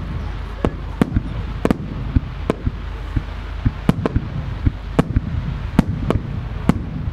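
Aerial firework shells launching and bursting in quick succession: an irregular string of sharp bangs, about two a second, over a steady low rumble.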